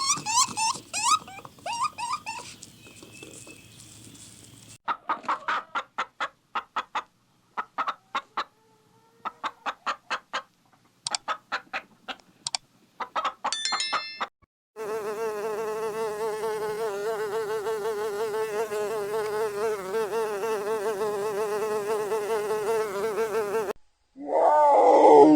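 A string of separate animal sound clips: a few short gliding chirps, then groups of rapid clicking calls, then about nine seconds of a flying insect's steady, wavering buzz that cuts off suddenly near the end.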